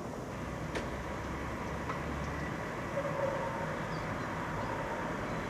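Distant train in a rail yard, heard as a steady low rumble over outdoor background noise, with a single sharp click under a second in.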